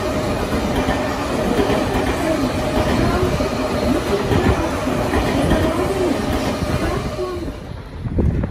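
Tozai Line electric commuter train running past the platform: loud, steady rumble of wheels on rail with a wavering whine over it. The sound thins out and drops away near the end.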